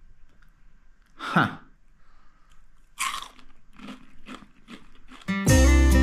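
Crunching and chewing of a crispy chanterelle mushroom chicharon: one loud crunch about three seconds in, then a run of smaller crunches, two or three a second. A short exclamation about a second in, and acoustic guitar music starts near the end.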